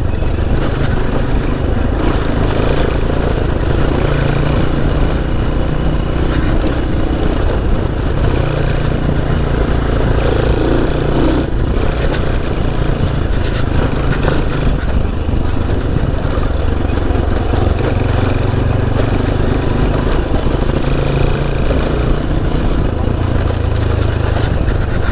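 Honda C90 step-through motorcycle's small single-cylinder four-stroke engine running steadily while riding, with wind and road noise on the microphone.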